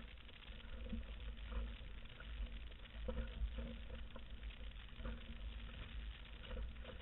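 Wind buffeting the microphone in an uneven low rumble, over a hiss of moving water.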